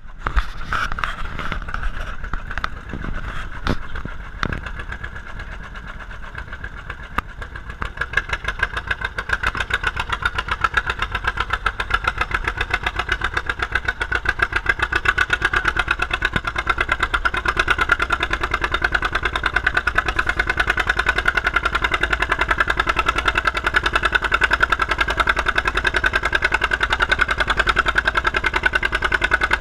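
John Deere B's two-cylinder engine popping in a steady rapid beat during a tractor pull. It gets louder about eight seconds in and holds there, working under load.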